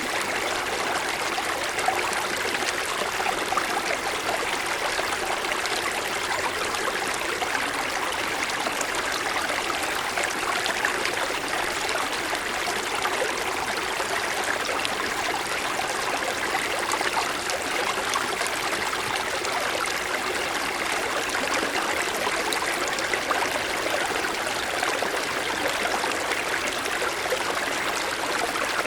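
Mountain stream flowing over snow-covered stones: a steady rush and trickle of water.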